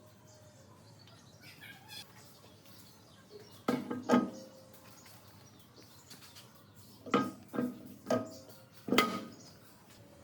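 Metal parts knocking together in six short, sharp clanks with a brief ring: two close together about four seconds in, then four more spread over about two seconds near the end.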